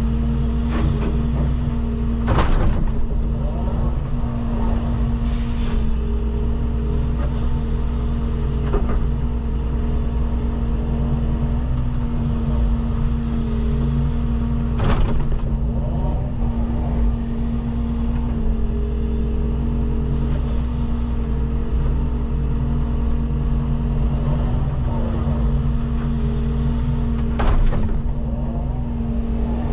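Diesel engine of a 06W wheeled excavator running steadily under working load while loading soil. A few short sharp noises stand out over the engine, about three seconds in, around the middle and near the end.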